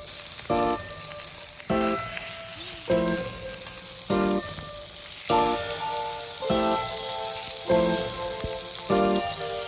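Food frying on a hot pan, a steady sizzle, under background music of pitched notes that come about once a second.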